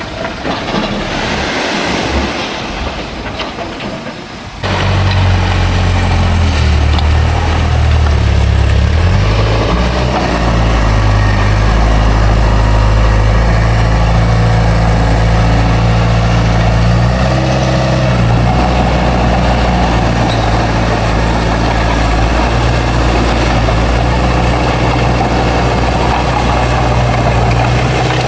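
Heavy diesel engine of earthmoving machinery running loud and steady, its note shifting in pitch a little about 9 and 17 seconds in. For the first few seconds there is a noisier, quieter machine sound, which cuts off suddenly when the engine note comes in.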